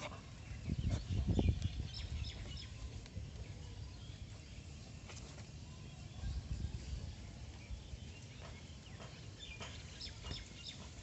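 Small birds chirping in short high notes, around two seconds in and again near the end. Underneath are low rustling and bumps, loudest about a second in, as the dragon fruits are handled.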